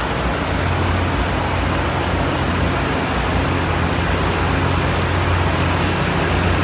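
Antique farm tractor engine running hard and steady under load, pulling a weight-transfer sled, with a low, even drone.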